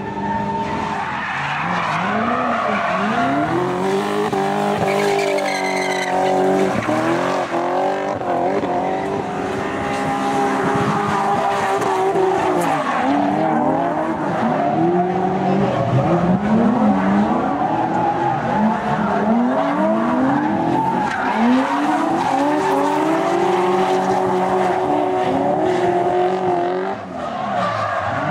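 V8 engine of a BMW E30 drift car, revved hard and repeatedly through powerslides: its pitch climbs and falls every couple of seconds as the throttle is worked, over the tyres skidding and squealing. The engine briefly drops off near the end before pulling again.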